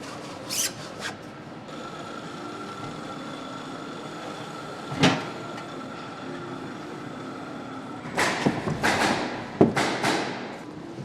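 Factory-floor working sounds: a steady hum with a few light clicks, one sharp knock about five seconds in, and a run of loud hissing, rustling noises near the end.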